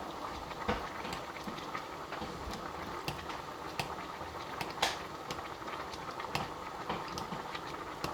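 Water boiling in a small pan used as a double boiler under a ceramic bowl of melting candle wax: a steady bubbling hiss with many small scattered pops and ticks.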